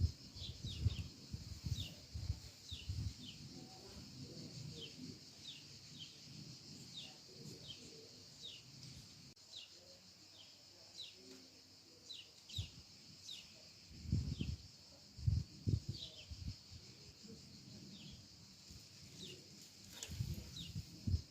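A sparrow chirping: short, quick downward chirps repeated about twice a second, over a steady high hiss. Low thumps come and go underneath, strongest a little past the middle.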